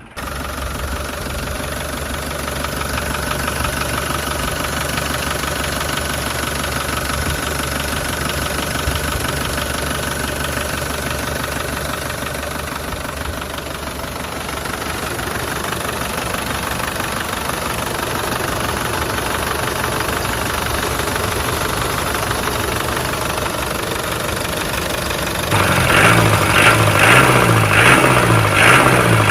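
An engine idling steadily. Near the end it turns to a louder, rhythmic chugging.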